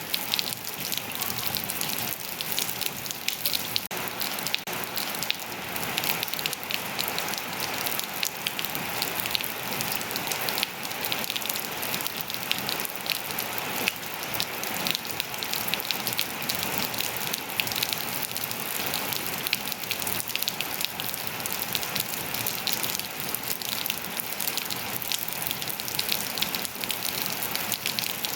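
Steady rain falling and pattering on surfaces, a dense hiss dotted with many individual drop ticks.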